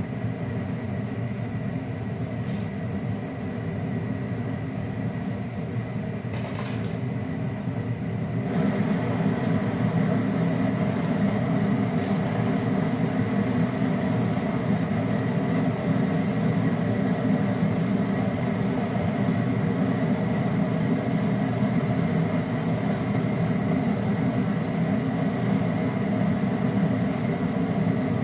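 Refrigerator compressor running with a steady hum during freon charging. About eight seconds in the sound grows louder and a steady hiss joins it.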